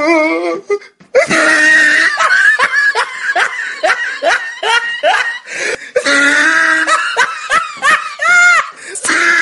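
Loud laughter in quick, repeated ha-ha bursts, starting after a short break about a second in.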